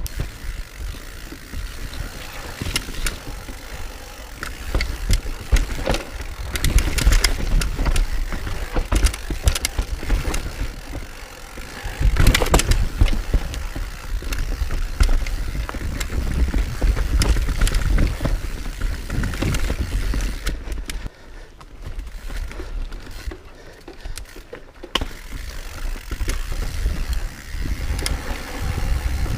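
Mountain bike riding down a rough dirt trail: a steady rumble of tyres and air with frequent clicks and rattles from the bike over bumps and roots. It gets quieter for a few seconds about two-thirds of the way through.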